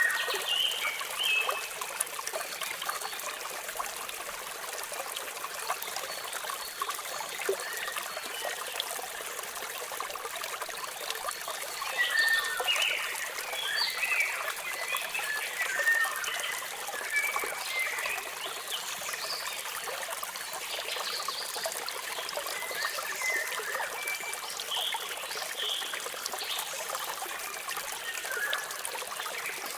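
Waterfall water splashing in a steady rush, with songbirds chirping over it in short high notes that come thickest about halfway through.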